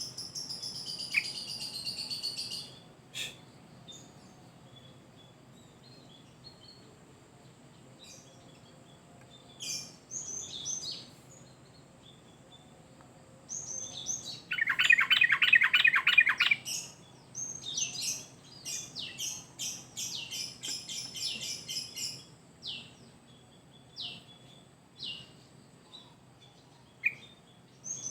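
Sooty-headed bulbul singing in bursts of quick, chattering phrases with pauses between them; the loudest burst is a fast rapid run of notes about halfway through, followed by a dense stretch of song and then scattered single notes.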